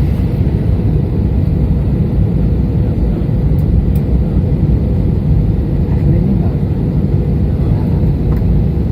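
Steady low roar of an airliner's engines and airflow, heard from inside the aircraft in flight.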